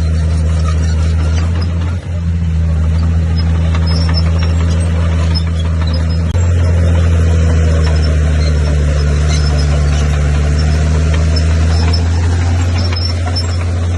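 Bulldozer's diesel engine running steadily, a loud low drone, briefly dipping twice, about two and six seconds in.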